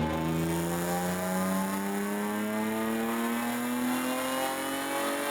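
BMW M52 2.8-litre straight-six engine of an E36 328 race car, freshly rebuilt with new pistons, accelerating hard with its pitch climbing steadily throughout.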